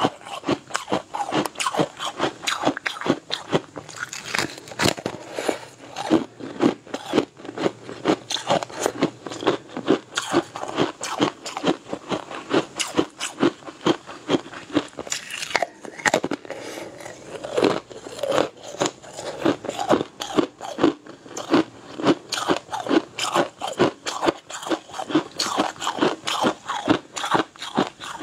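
Close-up biting, crunching and chewing of crisp food, with sharp crunches several times a second and a brief lull about sixteen seconds in.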